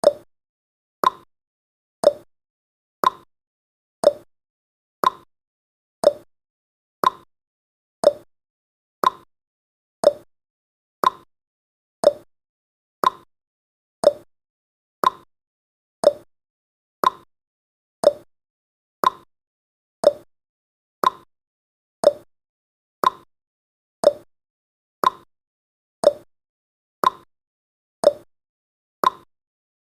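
Clock-style ticking sound effect of a countdown timer: one short sharp tick every second, evenly spaced.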